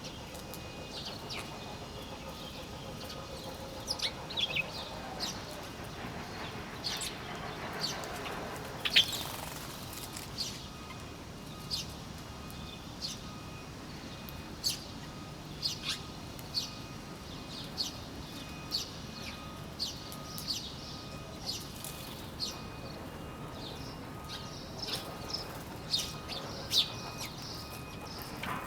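Small birds chirping: many short, sharp, high chirps scattered irregularly, with a louder burst about nine seconds in, over a steady background hiss.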